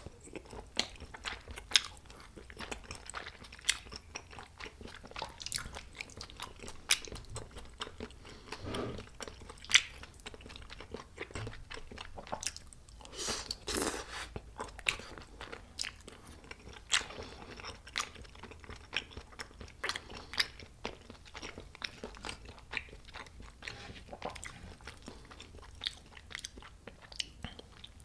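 Close-miked eating sounds of a person chewing spicy tteokbokki rice cakes and fried food: wet chewing with many sharp mouth clicks and crunches, with no talking.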